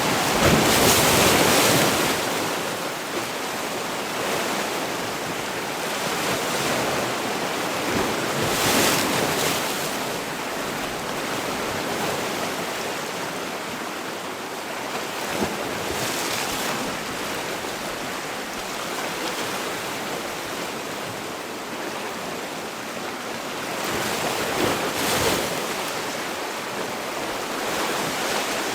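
Sea waves breaking and washing on the shore, a steady rush of surf that swells louder as a wave breaks, most strongly in the first two seconds and again near nine and twenty-five seconds in.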